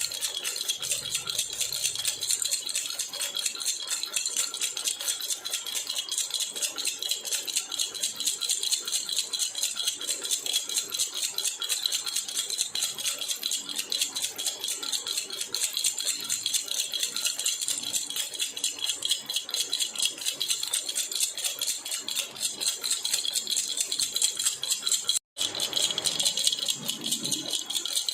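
A jhunjhuna baby rattle shaken without pause in a fast, steady jingling. The sound drops out for an instant about 25 seconds in.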